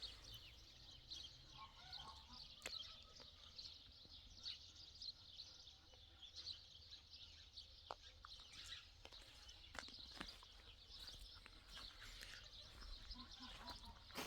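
Faint chorus of many small birds chirping, over a low steady hum, with a few soft clicks.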